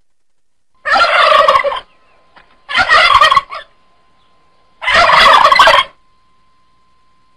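Turkey gobbling three times, each call about a second long, with short pauses between.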